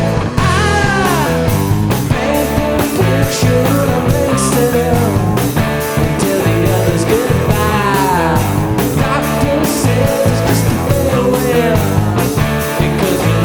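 Rock band playing: drums, bass and electric guitar in a steady, loud groove, with falling pitch bends from a lead line about a second in and again near the middle.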